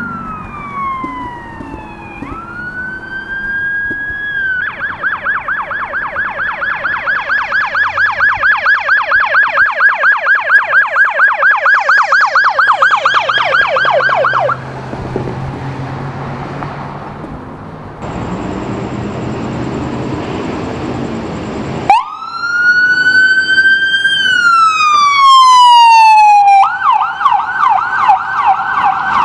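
Electronic emergency-vehicle sirens: a wail sweeping down and back up, then a fast yelp for about ten seconds. A stretch of engine and road noise follows, and near the end another wail rises and falls and switches into a fast yelp.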